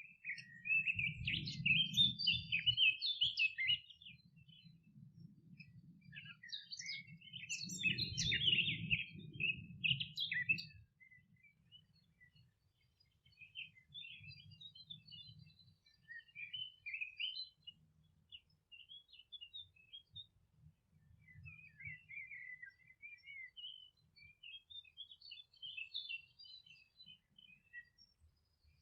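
Songbirds twittering and singing in rapid, busy phrases: two loud bouts in the first ten seconds, then softer, scattered bouts. A faint low rumble sits under the loudest bouts.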